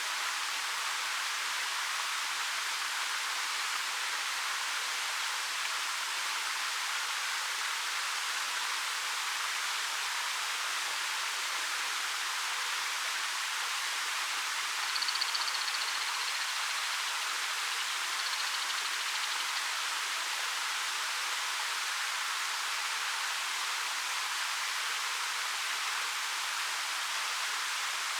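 The 13 m Ariake Falls, water pouring down black rock face, giving a steady, even hiss-like rush. A brief, faint high chirp sounds about halfway through.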